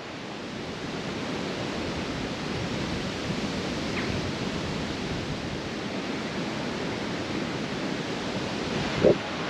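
Strong gusty wind rushing over the microphone as a steady rushing noise, with a brief short sound near the end.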